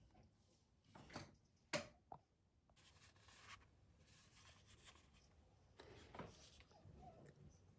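Faint handling sounds: soft rubbing and scraping strokes, with one sharp knock a little under two seconds in.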